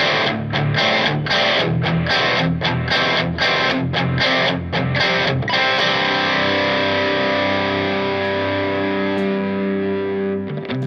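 Electric guitar played through effects pedals: rhythmic strummed chords with short muted stops, then a chord about halfway through left to ring and sustain for about five seconds, and a fresh chord struck near the end.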